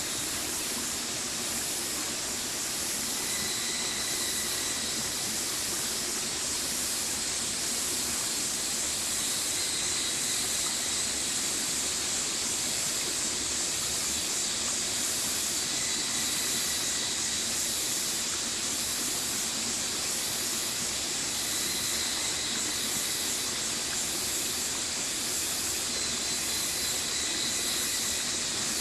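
Stream water flowing, a steady rushing hiss that does not change.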